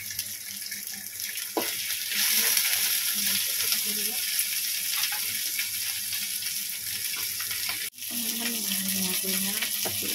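Meat-stuffed green chillies frying in oil in a wok: a steady sizzling hiss that gets louder about two seconds in. It breaks off briefly near the end and then carries on.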